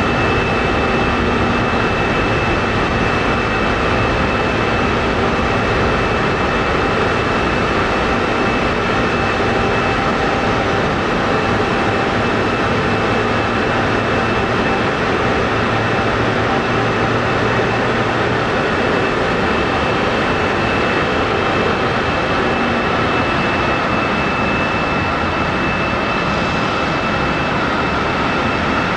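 Jet airliner engines running at close range: a steady, loud rushing noise with several high, constant whine tones over it.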